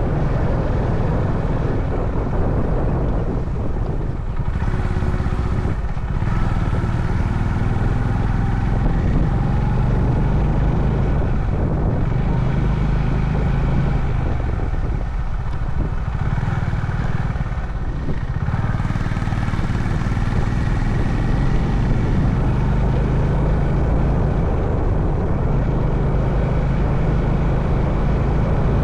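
Honda CB350 Highness single-cylinder engine running while the motorcycle is ridden. The engine note eases off twice, around four seconds in and again past the middle, then picks up again.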